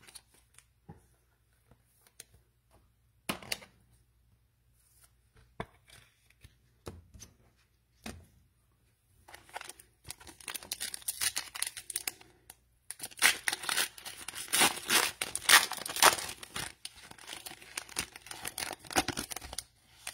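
Plastic cello-pack wrapper of a trading-card pack being torn open and crinkled, a dense crackling that starts about halfway through. Before it come a few scattered light taps of cards being handled.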